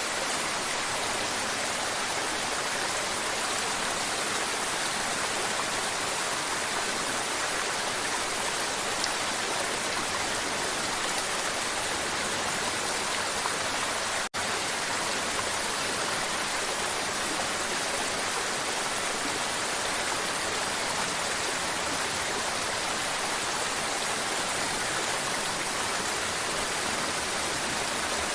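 Mountain river water flowing and babbling in a steady, even rush, with a split-second dropout about halfway through.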